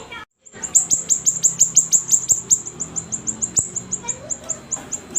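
Siri-siri songbird singing a fast series of high, sharply falling chirps, about six a second, broken by a brief dropout just after the start.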